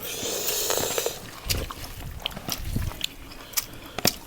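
Close-miked mouth sounds of someone eating rice and pork-leg gravy: a short hissing slurp at first, then chewing with wet clicks and smacks.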